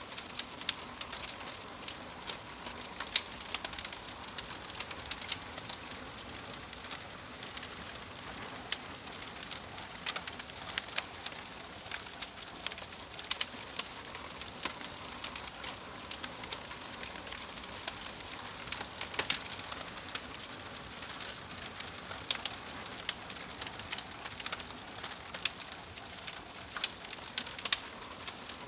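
Crackling fire: a steady hiss with irregular sharp pops and snaps.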